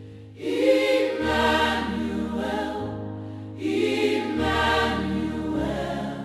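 Gospel song intro: a choir singing held chords over a slow-moving bass line, in two phrases that enter about half a second and three and a half seconds in.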